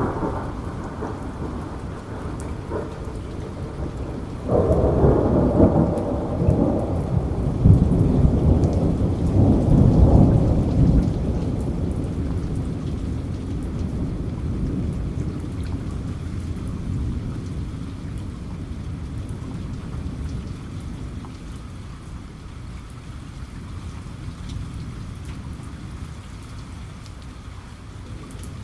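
Steady rain with a long roll of thunder that breaks in suddenly about four seconds in, is loudest a few seconds later, then slowly dies away.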